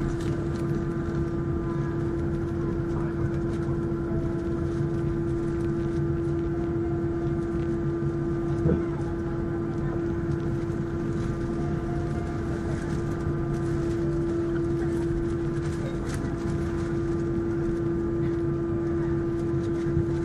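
Steady jet engine and airflow noise inside the passenger cabin of an Airbus A321 under power, a constant drone with a strong low hum and fainter higher tones. A brief click sounds about nine seconds in.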